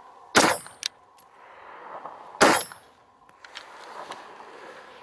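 Two shots from a Zev-built Glock pistol about two seconds apart, each trailing off briefly. A fainter sharp click follows shortly after the first shot.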